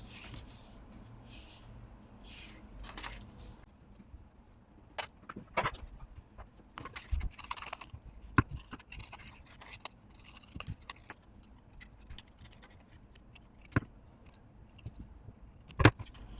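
Paper and small craft tools handled on a desk: scattered scrapes, rustles and sharp little clicks, the loudest click near the end.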